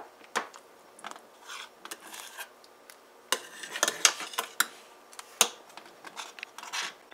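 A spoon clinking, knocking and scraping against cookware while porridge is stirred and handled. The knocks come scattered, with a busier run of clatter a little after the middle.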